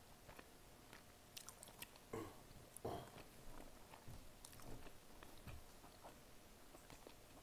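A person chewing grilled chicken yakitori with the mouth close to the microphone: soft wet smacks and small clicks, with two louder chews a little after two and about three seconds in.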